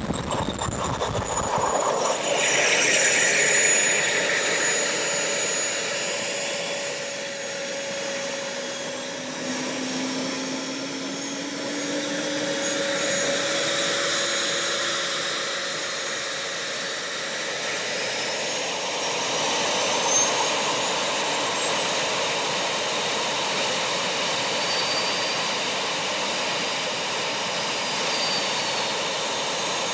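Small gas-turbine engines of RC model jets running with a steady whine, their pitch gliding up and down slowly. The sound changes abruptly about two seconds in.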